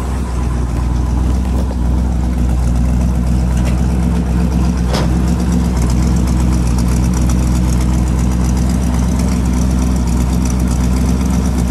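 1957 Chevrolet Bel Air's 283 cubic-inch fuel-injected V8 idling steadily, heard at the rear exhaust tailpipes.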